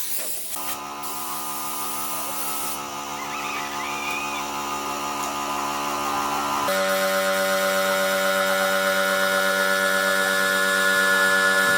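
Restored PONY direct-drive electric air compressor running: a steady motor hum that slowly grows louder, its tone shifting about two-thirds of the way through.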